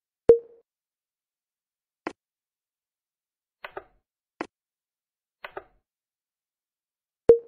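A short electronic beep with a sharp click, then a few quiet clicks or taps spaced a second or so apart, some in quick pairs, then another beep near the end.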